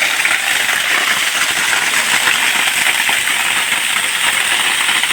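Waterfall about 15 feet high pouring down, a loud, steady rush and splash of falling water.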